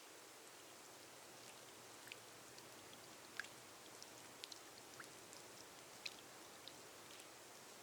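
Gentle rain on a glass roof: a soft, steady hiss with scattered individual drops ticking sharply, a few a second.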